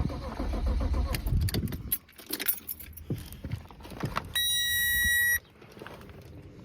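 Car engine cranking over without catching, the sign of a no-start, cut off abruptly about two seconds in. Then a few light clicks and key jingles, and about four seconds in a steady electronic warning beep lasting about a second.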